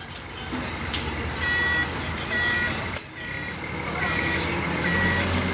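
Reversing alarm on heavy machinery beeping about once a second, over a diesel engine running, with a couple of sharp clicks.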